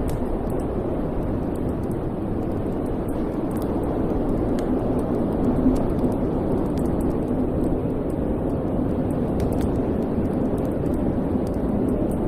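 Wood fire burning in a fireplace: a steady low rumble of flame with faint, scattered crackles and pops.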